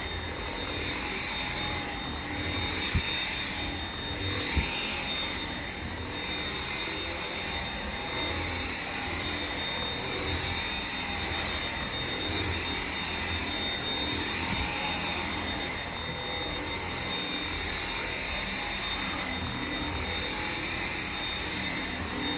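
Dyson V7 Motorhead cordless stick vacuum running steadily, with a high, even motor whine that swells and eases every couple of seconds as it is worked over the floor.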